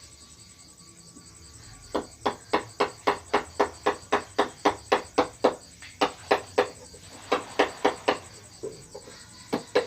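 A steady run of sharp taps, about three to four a second, starting about two seconds in and pausing briefly near the end.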